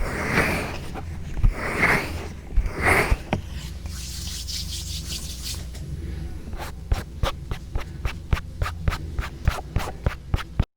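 Close rubbing strokes on a binaural microphone, about one a second, then a brief hiss. From about six and a half seconds in comes a run of quick, sharp taps, roughly three a second.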